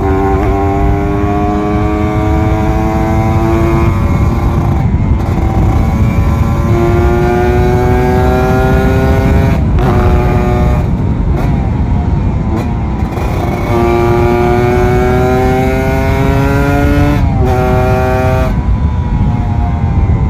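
Kawasaki Ninja RR 150's two-stroke single-cylinder engine pulling hard while riding. Its pitch climbs steadily in each gear, then breaks off and drops at each of several upshifts.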